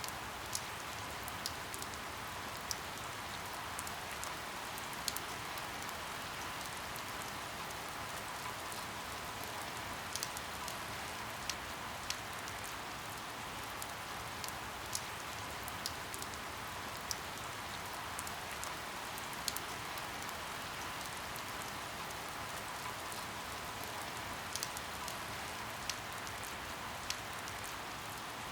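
Steady rain falling, a continuous even hiss with louder single drops ticking out of it at irregular intervals, about one a second.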